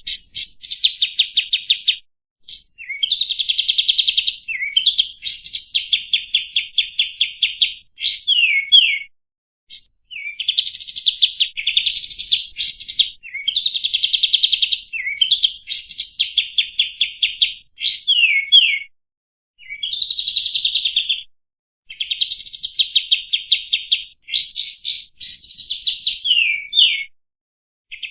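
Kapas tembak songbird singing a chattering song. Fast, rattling trills are broken by quick falling notes, in bursts of one to two seconds with short pauses between them.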